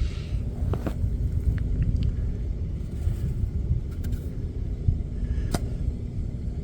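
A car engine idling, a steady low rumble heard from inside the cabin, with a few light clicks and knocks, the clearest about a second in and again near five and a half seconds.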